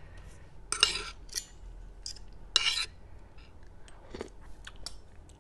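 Eating utensils clinking and scraping against a dish of food, several short separate clinks.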